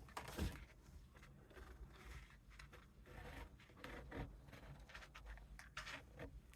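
Faint, scattered rustling and scraping of a paper gift-bag piece and poster board being handled and pressed down while gluing, loudest about half a second in and again near the end.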